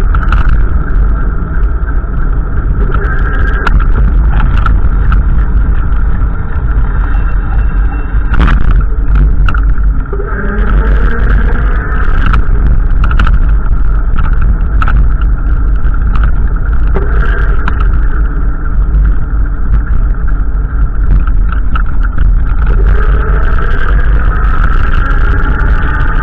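Loud wind rumble on the microphone, with a motor vehicle running. Near the end an engine note rises, as when the vehicle speeds up.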